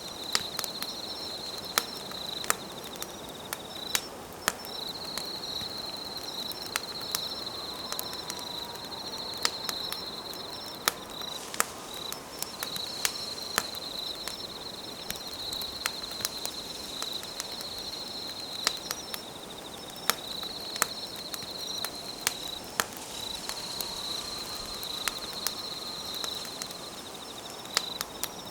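Wood campfire crackling, with sharp irregular pops scattered throughout, over a high, continuous trilling of insects that breaks off briefly every few seconds.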